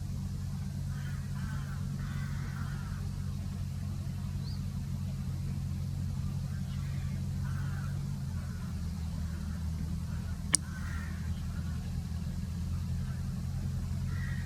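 A steady low hum like a distant engine or traffic, with faint short bird calls now and then and a single sharp click about ten seconds in.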